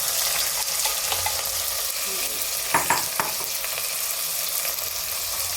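Sliced onions sizzling as they fry in hot oil in a kadai, with mustard seeds already spluttered, while being stirred. A few sharp knocks of the stirring spoon against the pan come a little under three seconds in.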